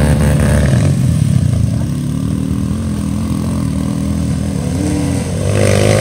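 Motorcycle engine running and revving, its pitch rising and falling as the throttle is worked.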